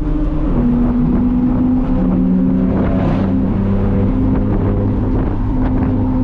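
Straight-piped BMW M4 F82's twin-turbo inline-six (AWE straight-pipe exhaust) running loud at fairly steady revs while driving, its pitch stepping slightly up and down a few times, with some wind noise.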